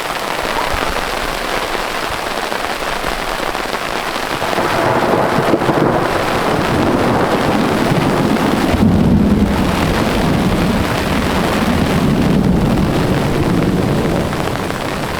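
Heavy thunderstorm rain falling steadily. Low thunder rumbles in from about five seconds in, swelling twice before easing.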